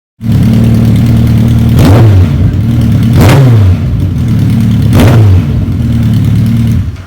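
Suzuki Hayabusa's inline-four engine through a Racefit titanium slip-on exhaust, idling loud with three quick throttle blips, about two, three and five seconds in.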